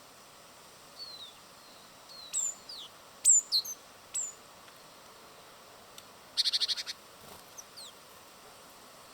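Small songbirds at a feeder calling: a run of short, high, down-slurred chirps, then a quick rattle of about eight notes a little past the middle, and a few faint chirps after it.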